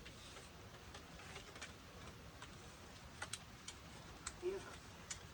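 Faint, scattered light clicks and taps, about half a dozen spread over a few seconds, with one duller knock: hand tools at work on the bolts holding a pool pump motor.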